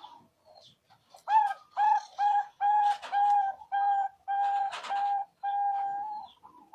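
Zebra dove (perkutut) song: a run of about nine short, clear coos on one pitch, starting about a second in, the last one drawn out.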